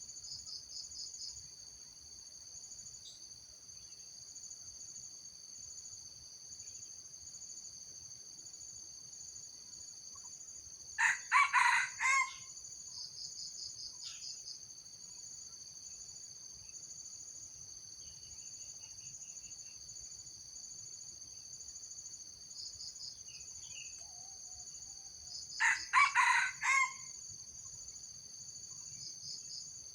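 Junglefowl rooster crowing twice, about 11 seconds in and again near 26 seconds, each a short, clipped crow of a few syllables. A steady high-pitched insect drone with repeating pulsing trills runs underneath.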